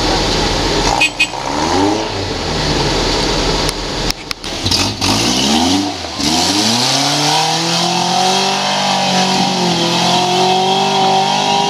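Off-road buggy engine revving up and down several times, then held at high revs for the last few seconds as it pulls hard.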